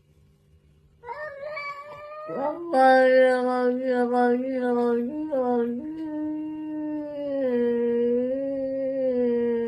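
A cat yowling in one long, drawn-out call that wavers in pitch, starting about a second in, quieter at first and louder from nearly three seconds in.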